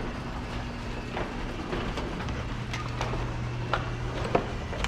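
Footsteps on a hard floor, irregular taps over a steady low hum.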